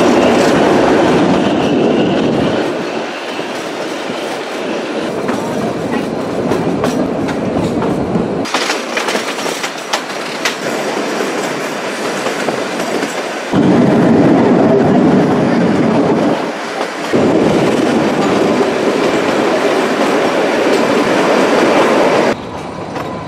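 Carriages of the Kalka–Shimla narrow-gauge toy train running along the line, wheels clattering on the rails, heard from an open doorway of a moving carriage. The sound level changes abruptly several times where separate takes are joined.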